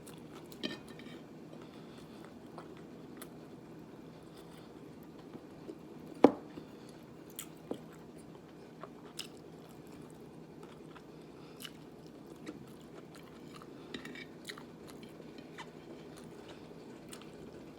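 Close-up mouth sounds of chewing and biting food, long-bean adobo. Scattered soft clicks run through it, with one sharp click about six seconds in.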